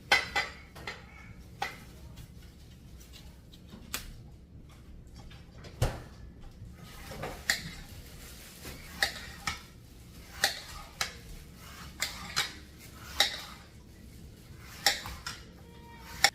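Dishes and cutlery being handled: about fifteen sharp clinks and knocks at irregular intervals.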